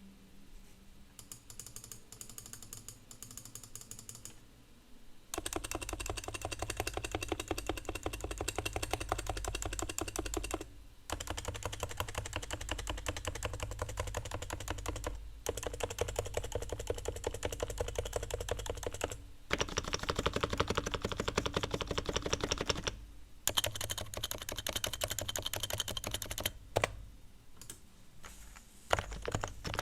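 Stock, unlubricated Realforce R3 TKL silent keyboard with 45 g Topre electrostatic capacitive switches being typed on. A few seconds of fainter keystrokes, then fast continuous typing in runs of about four seconds separated by short pauses, ending in looser, scattered strokes.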